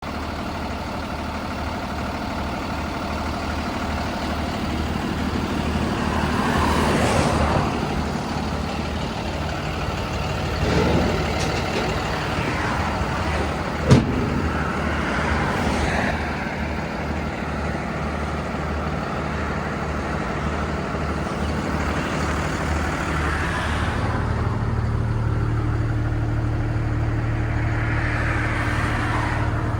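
2020 International box truck's engine idling steadily, with one sharp click about halfway through; the low hum grows stronger for the last few seconds.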